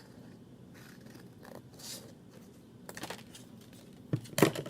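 Scissors snipping paper: a few soft cutting and sliding sounds, then a couple of sharp clicks of the blades near the end.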